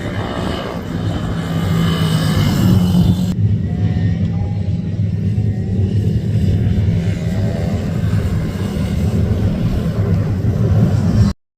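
Minibike racing engines running steadily, with faint rising and falling pitches above the steady low hum; the sound cuts off abruptly near the end.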